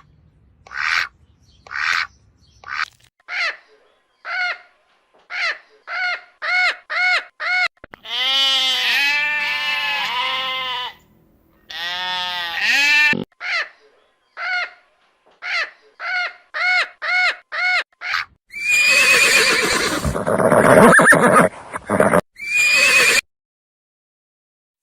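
An animal calling: a run of short pitched calls, first about one a second and then quickening to about three a second, with a longer wavering call in the middle and a louder, harsher call near the end.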